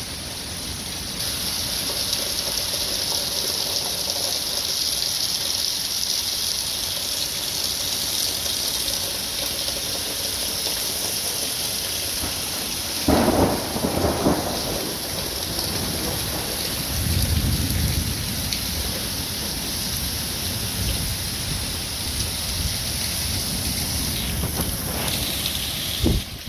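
Heavy rain hissing steadily in a thunderstorm, with a sudden loud thunderclap about halfway through and a low rumble of thunder a few seconds later.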